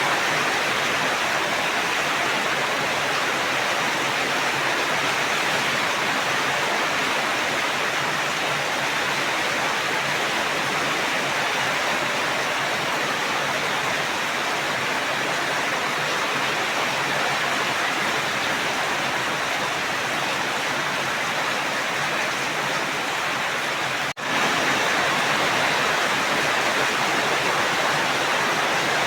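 Steady, dense rain hissing evenly throughout, with a momentary dropout about four-fifths of the way through before it resumes at the same level.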